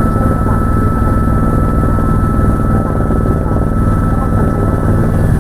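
Helicopter in flight: steady, loud rotor and engine noise with a fine rapid pulsing, and a high steady whine that stops near the end.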